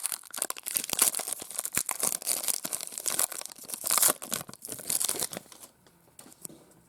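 Wrapper of a 2019 Donruss baseball card pack being torn open and crinkled. It makes a dense crackle for about five seconds, then dies down near the end.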